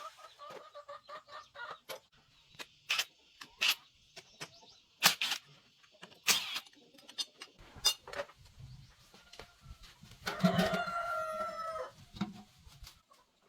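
Chickens clucking in short calls, with a longer drawn-out call about ten seconds in, among scattered sharp knocks.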